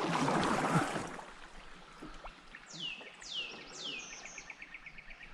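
A songbird singing: three clear downward-slurred whistles, then a quick run of short repeated notes. A brief rush of noise fills the first second.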